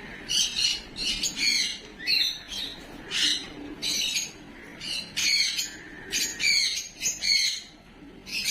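Small pet parrots squawking: about a dozen short, harsh calls in quick succession, some coming in close pairs.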